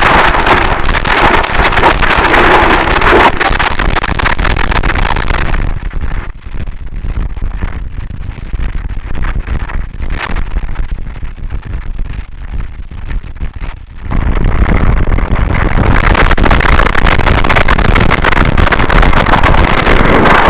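Harsh noise wall: a dense, distorted wall of static at full loudness. About six seconds in it drops to a quieter, muffled, crackling stretch, then about fourteen seconds in the full wall of noise comes back as one track gives way to the next.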